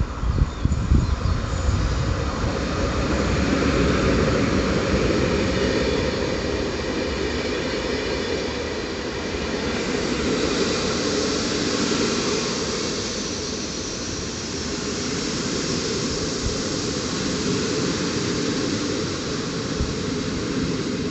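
Passenger train running past on the tracks, a steady noise of wheels on rail that grows brighter and hissier about halfway through.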